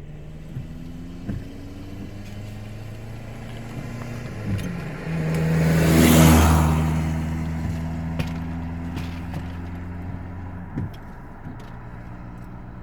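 A motor vehicle passes close by. Its engine and tyre noise build to a peak about six seconds in, then fade away over a steady low engine hum.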